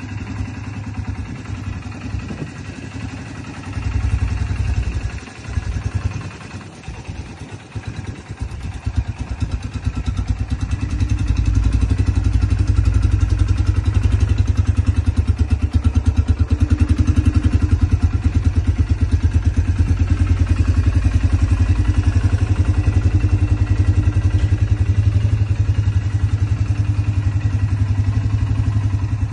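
Strong 377 engine running with an evenly pulsing exhaust. It runs unevenly at first, with a brief rise about four seconds in, then settles into a louder steady run at a raised speed from about ten seconds on.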